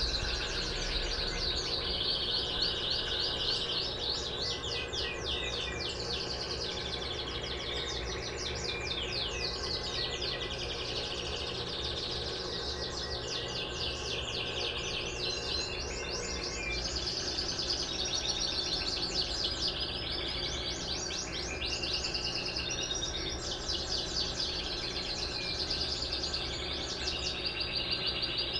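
Many small birds chirping busily and without pause, over a steady low hum.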